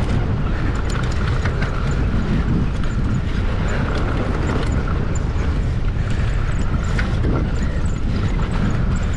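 Wind rushing over an action camera's microphone as a mountain bike rolls fast down a dirt and stone trail, a steady noise with a few faint clicks from the bike.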